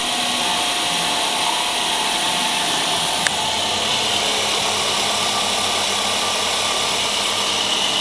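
2001 Toyota RAV4's 2.0-litre four-cylinder engine running steadily at idle, with one sharp click about three seconds in.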